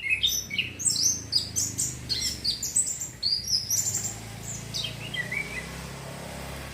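Male orange-headed thrush (anis kembang) singing, a young bird still learning its song: a fast, dense run of varied high whistled notes for about four seconds, then a few scattered notes before it trails off, over a low steady hum.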